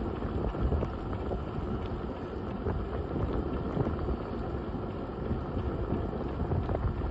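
Wind buffeting the microphone of a moving bicycle, a steady fluctuating rumble mixed with the roll of the tyres over the trail, with a few faint ticks.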